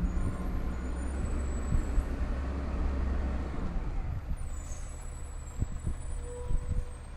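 Engine of a Peterbilt 320 side-loader garbage truck running with a heavy low rumble that eases off about halfway through, with faint high whines above it.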